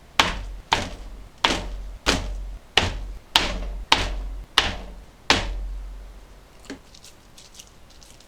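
Nine sharp, evenly spaced knocks, about one every 0.6 seconds, each with a short ringing tail. A single fainter tap follows a little later.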